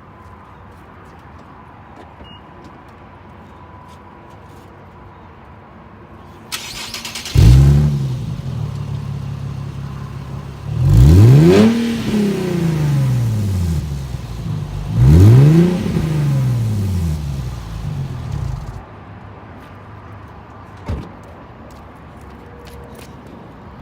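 Infiniti G37 sedan's 3.7-litre V6 through a DC Sports aftermarket exhaust: it starts with a loud flare about a third of the way in, settles to an idle, is revved twice with the pitch climbing and falling back each time, then shuts off. A single short knock follows a couple of seconds later.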